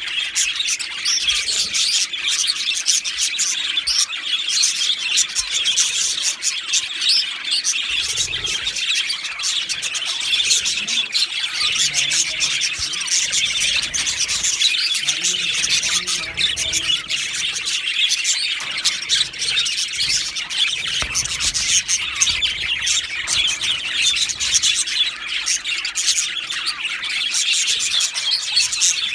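Male budgerigars (budgies) warbling and chirping in a continuous, dense chatter of quick high notes.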